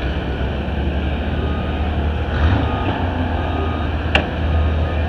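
A vehicle engine running with a steady low hum. From about halfway in, a reversing alarm beeps repeatedly, and a single sharp click sounds near the end.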